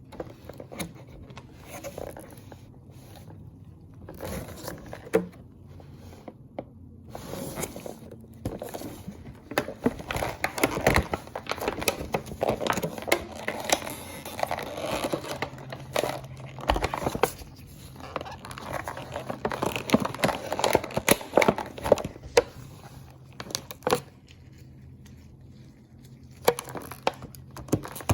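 Packaging being handled and opened by hand: plastic crinkling, cardboard scraping and tearing, with many small clicks and knocks, busiest in the middle and quieter near the end.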